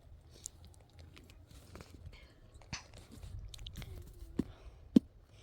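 Irregular small clicks and knocks, the loudest a single sharp knock near the end.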